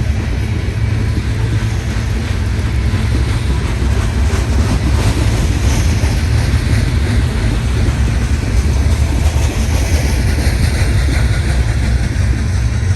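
Coal train's hopper cars rolling past on the rails: a steady, loud rumble of steel wheels on track.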